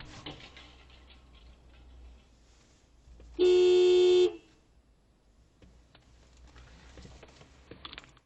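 A car horn sounds once, a steady, loud blast of about a second, a few seconds in, over low road rumble and faint scattered knocks.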